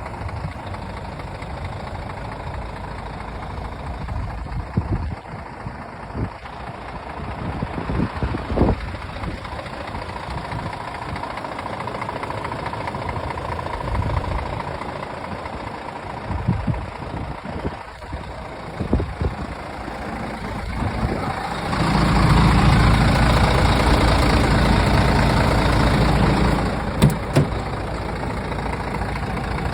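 Scania R450 truck's diesel engine idling, with scattered short knocks and clicks. About two-thirds of the way in the engine grows louder for around four seconds, then settles back to idle, followed by two sharp clicks.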